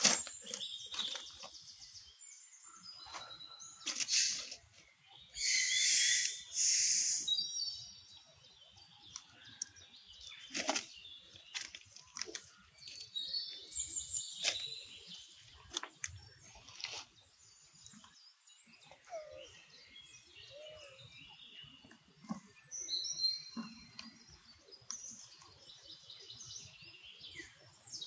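Birds chirping and calling on and off, with a few short hissy bursts in the first several seconds and scattered faint clicks and rustles.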